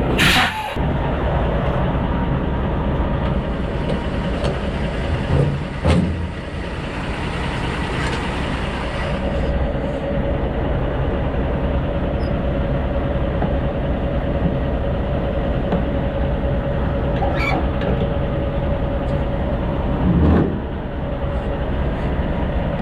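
Semi-truck running with a steady low engine rumble, with three short louder noises: one at the start, one about six seconds in and one about twenty seconds in.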